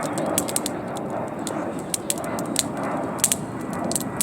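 Wood campfire crackling: irregular sharp pops and snaps, several a second, over a steady rush of burning.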